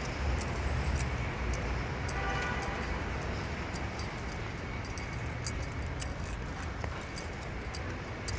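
Steady low vehicle rumble with many faint light clicks, and a brief pitched tone about two seconds in.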